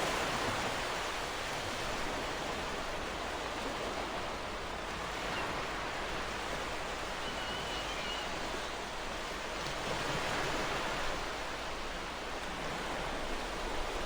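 Ocean surf washing steadily onto a shore, a continuous rushing of waves that swells gently at the start and again about ten seconds in.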